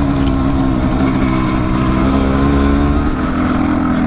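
Dual-sport motorcycle engine running steadily under way on a dirt trail, its pitch easing slightly about three seconds in.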